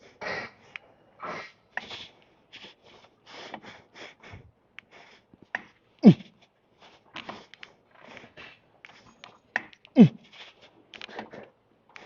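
A man breathing hard through reps of a plate-loaded lat pull-down, with quick forceful breaths and a short voiced grunt that drops in pitch about six and ten seconds in, along with light clicks from the machine.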